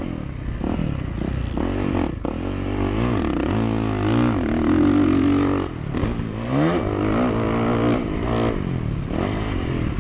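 Motocross dirt bike engine being ridden hard, its revs repeatedly climbing and dropping as the rider works the throttle and shifts through the gears.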